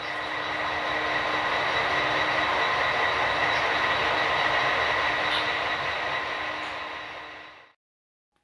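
Train running, a steady dense noise with a thin high whine held through it, fading away near the end.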